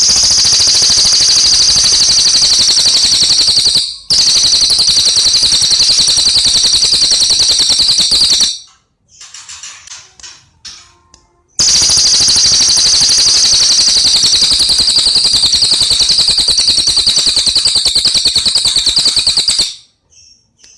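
A cililin songbird singing a loud, rapid, high-pitched trill in long unbroken runs of several seconds each, with a short break about four seconds in and a longer pause in the middle filled by a few soft chirps.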